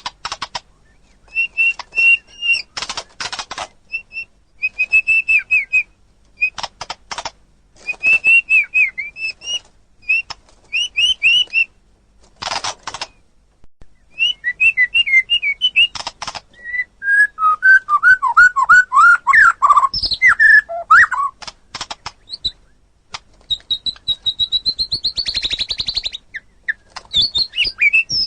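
White-rumped shama in full song: bursts of varied whistles and rapid chattering phrases separated by short pauses. About two-thirds through comes a run of lower, falling whistles, and near the end a fast, high trill.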